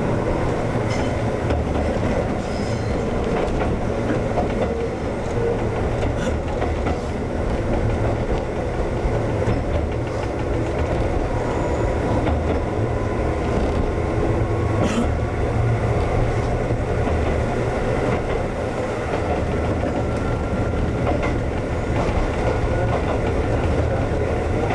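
Ex-Tokyu 7000 series electric train running on the line: a steady rumble with a few clicks of the wheels over rail joints and a faint whine that slowly rises in pitch.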